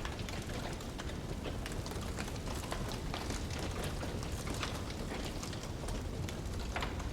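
Wood fire crackling in a fireplace: frequent, irregular small pops and snaps over a steady low rumble.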